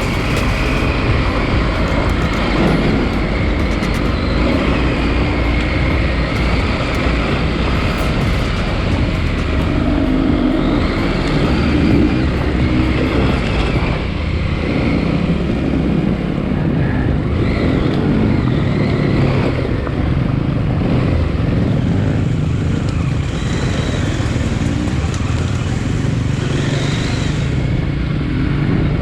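KTM 890 Adventure R's parallel-twin engine running steadily while the bike is ridden along a dirt trail, with road and wind noise.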